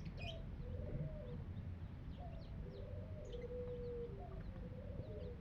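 Chickens calling: repeated drawn-out low calls and clucks, some held for about half a second, mixed with many short, high, falling chirps.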